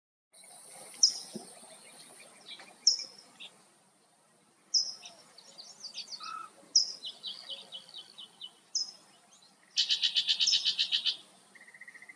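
Songbirds singing: short high phrases about every two seconds, then a loud rapid trill near the end, over a steady high-pitched hiss.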